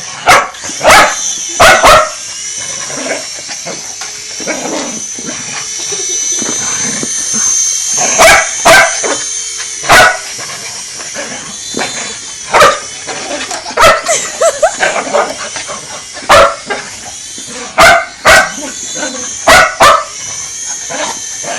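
Dog barking at a helicopter, sharp barks in ones and twos scattered through the stretch, over a steady high-pitched whine.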